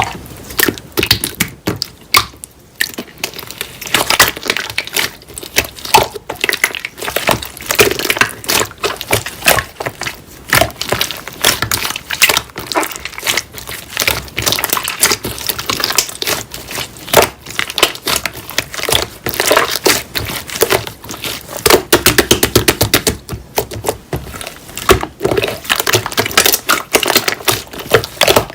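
Slime being kneaded and pressed by hand: a dense, irregular run of sticky crackles, clicks and pops.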